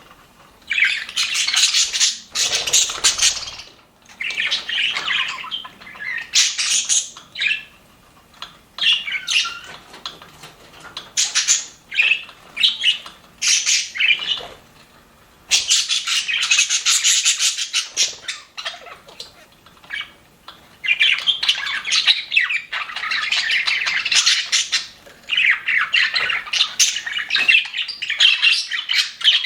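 A flock of budgerigars chirping and warbling in overlapping bursts, with short pauses between, and longer unbroken chatter in the second half.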